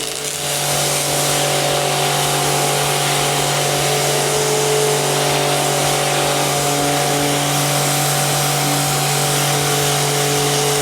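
Electric pressure washer with a brushless motor running under load, with a steady hum from the motor and pump beneath the loud, even hiss of the water jet spraying from a freshly swapped nozzle.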